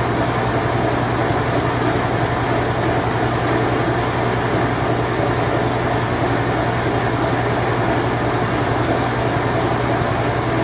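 Whirlpool Imperial Clean Touch washing machine running its spin cycle: a steady low hum with an even whir over it.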